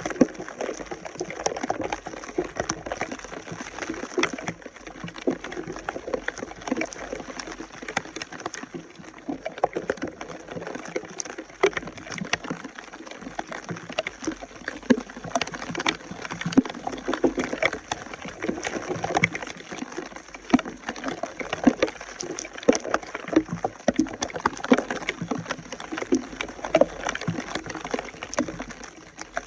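Water splashing and gurgling, with many small irregular knocks and splashes.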